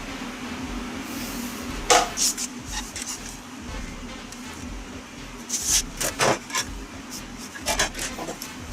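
Several sharp wooden knocks and clatters, lumber being handled and set down: one about two seconds in, a quick run of them past the middle, and a couple more near the end, over a steady low hum.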